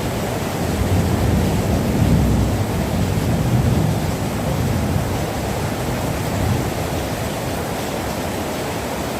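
Heavy rain falling steadily, a continuous rushing hiss with a deep low rumble.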